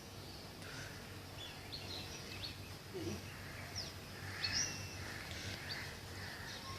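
Small birds chirping now and then, short high chirps and quick slides, over a faint steady low hum.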